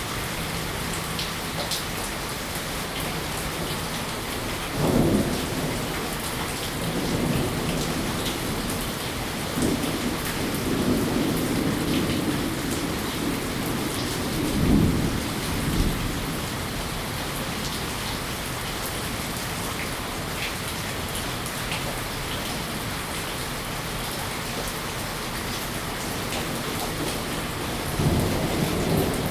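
Steady rain falling, with several low rumbles of thunder rolling through, one near the end.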